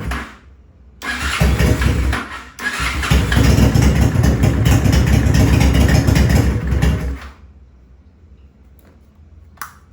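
Honda Shadow V-twin being cranked on the electric starter in two attempts, a short one and then one of about four seconds that stops abruptly, with no engine left running. It is an engine that will not start unless the carburettor's air intake is restricted.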